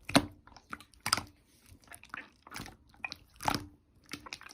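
Hands squeezing and pressing slime, with sharp crackling pops about once or twice a second and softer squishing between them.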